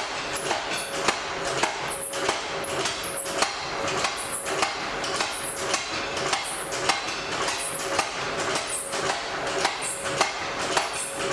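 Blacksmith's hammer striking on an anvil in a steady rhythm, a little under two blows a second, over the steady rush of the forge fire.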